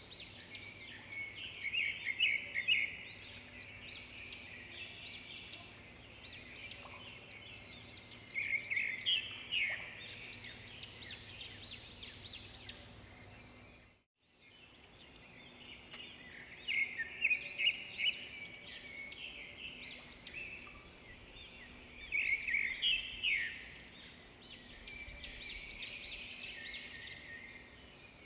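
Birds singing in repeated bursts of quick chirps and short trills, over a faint steady low hum. The sound cuts out briefly about halfway through.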